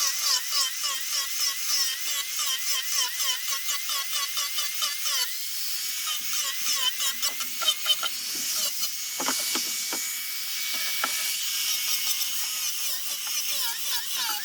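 High-speed rotary power tool sanding zelkova root wood. Its whine wavers with rhythmic strokes several times a second, then runs steadier after about five seconds, with a few sharp knocks near the middle.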